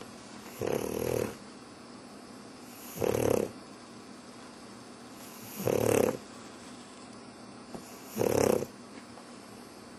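A pug dog snoring: four loud snores about every two and a half seconds, each about half a second long.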